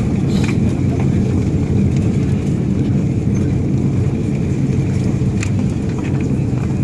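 Steady rumble of an airliner's cabin as the jet rolls along the ground after landing, with a faint steady high whine over it. A few light clicks or rattles come through, about half a second in and again near the end.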